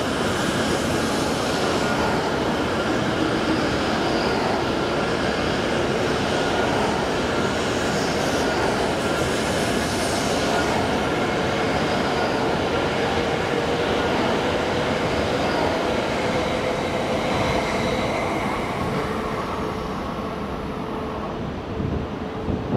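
E7 series Shinkansen train pulling out of the station, its cars rolling past with steady wheel and running noise and faint whining tones. The noise fades away near the end as the last car clears.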